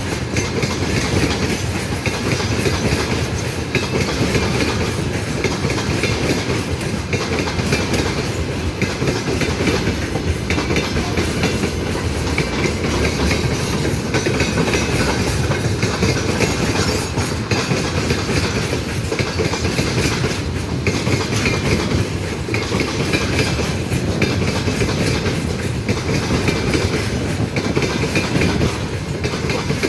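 Train passing at speed, its wheels clattering steadily over the rail joints.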